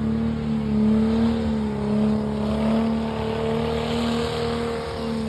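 Car engine held at steady high revs during a burnout, its pitch wavering only slightly, with a hiss over the top.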